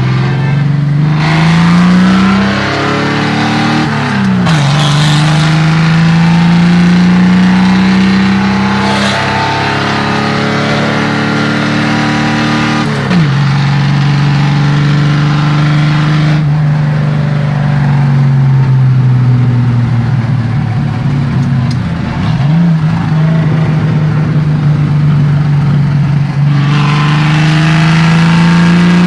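Chevrolet 400's straight-six engine running on an open exhaust while driving. The engine note climbs steadily, then drops or jumps sharply a few times as the gears change.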